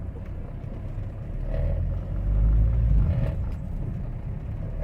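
Hyundai Verna CRDi diesel engine pulling the car along under throttle, its low drone swelling louder between about one and a half and three seconds in, then easing. It pulls without the jerking that had been caused by a faulty rail pressure regulator and rail pressure switch, now replaced.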